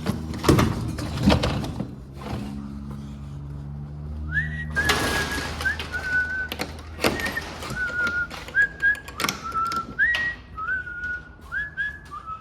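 A man whistling a tune in short stepped notes, starting about four seconds in, over scattered knocks and thunks. A low steady hum is heard in the first few seconds.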